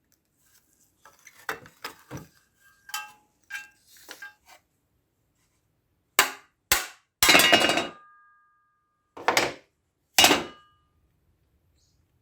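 Metal parts of an old electric heater clinking and knocking as it is taken apart. First comes a string of light clinks, then several loud sharp knocks and a short clatter, which leaves a brief metallic ring.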